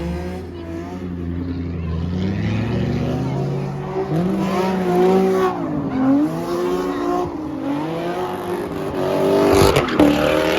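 Car engine revving hard while its tires squeal during a donut, the engine pitch rising and falling. A sharp crack comes near the end.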